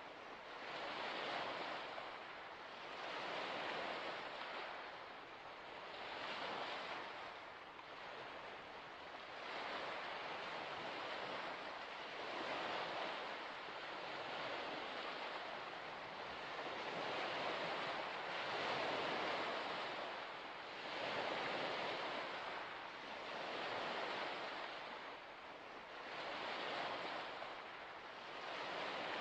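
Small waves washing onto a shore, a steady hiss of water that swells and falls back every couple of seconds.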